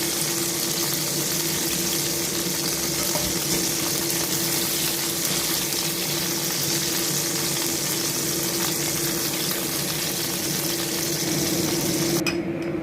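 Cornstarch-coated chicken pieces sizzling steadily in hot oil in a frying pan. Near the end the sizzle cuts off suddenly, leaving only a steady hum.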